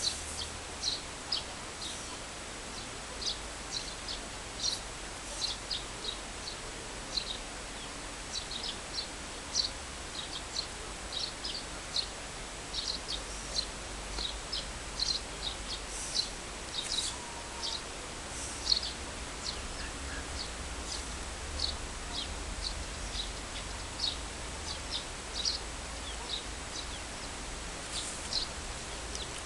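Small birds chirping in short, high, irregular notes, several every second, over faint low background noise.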